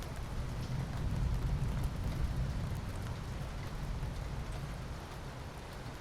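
Steady rain falling, with a low rumble of thunder that swells about a second in and slowly fades.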